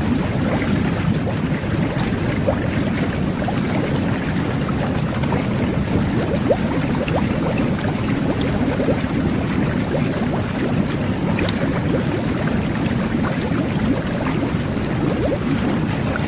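Jetted whirlpool bath running: a steady churn of water with a low rumble and many small bubbles popping through it.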